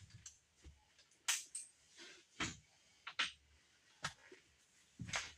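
Scattered knocks and clicks of wooden parts and hardware being handled on a workbench, about one a second.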